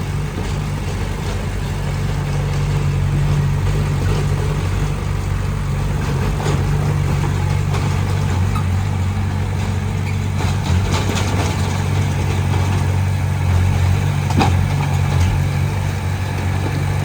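Diesel engine of heavy earthmoving equipment running steadily at a low, even pitch, with a few short knocks.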